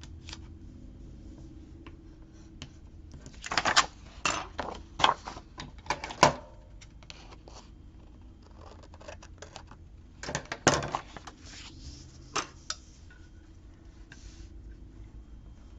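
Paper and sticker sheets being handled on a desk: short crinkling and tapping noises in two clusters, about four to six seconds in and again about ten to thirteen seconds in, over a low steady hum.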